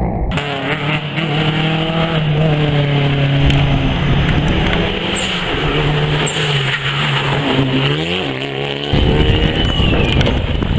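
Rally car engine driven hard at high revs, its pitch climbing and dropping repeatedly through gear changes. About nine seconds in, it gives way suddenly to a louder rushing noise.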